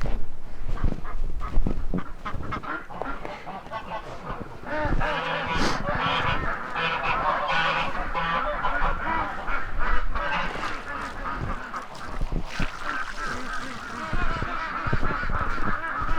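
A flock of domestic geese honking, many calls overlapping, with ducks among them; the calling grows denser about five seconds in.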